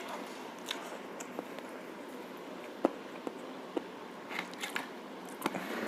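Chewing and biting on braised pork shank (pata tim), with scattered small clicks; the sharpest click comes nearly three seconds in.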